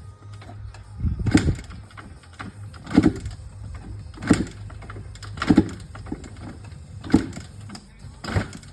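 Kawasaki KX420 two-stroke motocross bike being kicked over again and again without catching: six loud strokes about a second and a half apart, over a low steady hum.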